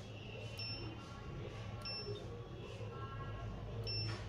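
IFB washing machine's control panel beeping as the program selector is stepped through: three short high beeps, each with a click, about one to two seconds apart.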